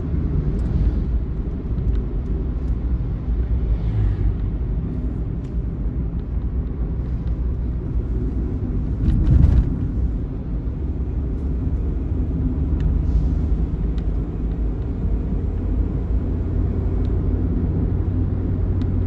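A bus engine and road noise on the move: a steady low rumble, with a brief louder swell about nine seconds in.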